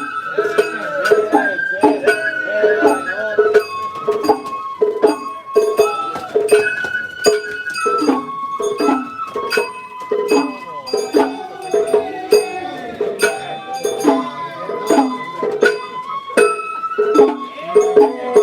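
Japanese festival hayashi music: a bamboo flute plays a stepping melody over steady drum and metal gong strikes, about two a second.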